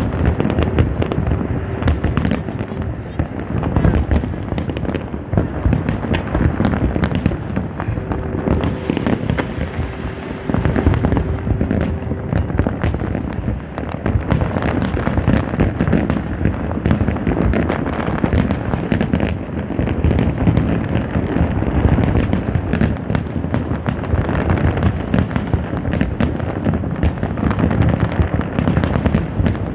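Large fireworks display: a dense, unbroken barrage of shells bursting, deep booms overlapping with crackles and pops, with no pause. A faint held tone sounds under the bursts near the start and again about eight seconds in.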